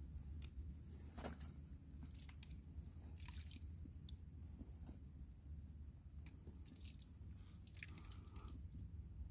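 Faint scattered clicks and short rustles over a low steady rumble, with a thin steady high tone.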